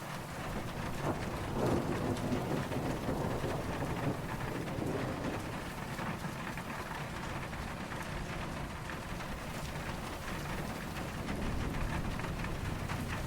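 Steady rain falling, with a low rumble of distant thunder that swells over the first few seconds and rises again near the end.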